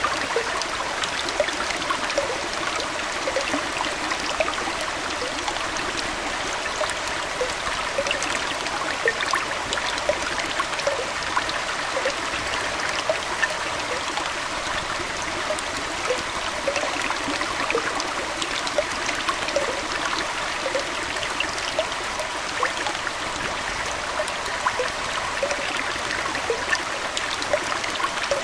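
Aquarium water trickling steadily like a small stream, with frequent small plinks and bubbling over the steady flow.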